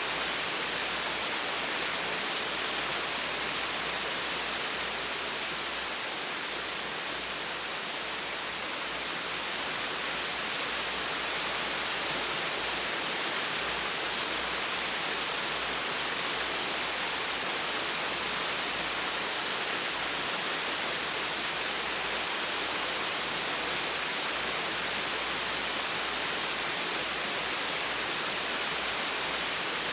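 Gentle waterfall running steadily: an even rush of falling water.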